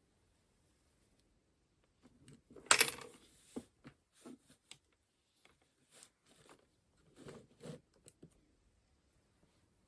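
Things being handled on a tabletop: a scatter of light clicks and taps, with one sharp clack about three seconds in and a few softer knocks later.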